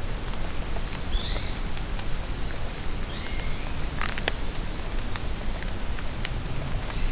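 Steady rain falling in a forest, with drops ticking close by, and birds calling several times in short, high chirps and trills.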